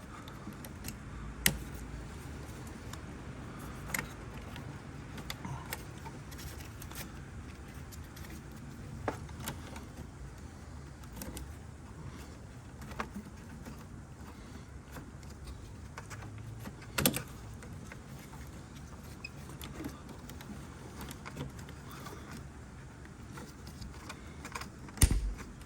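Scattered light clicks and metallic clinks of parts and tools being handled while refitting a coolant bleed valve and its bracket, a few sharper knocks among them, over a steady low hum.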